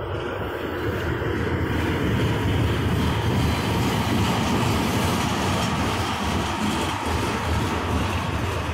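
Freight train tank cars rolling past close by: a steady rumble and rattle of steel wheels on rail, swelling over the first couple of seconds.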